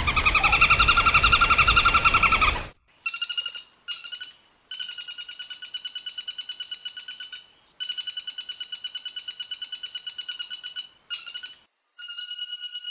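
A woodpecker giving rapid, rattling trill calls. The first trill is louder and harsher, and it is followed by a string of shorter and longer rattles with brief pauses between them.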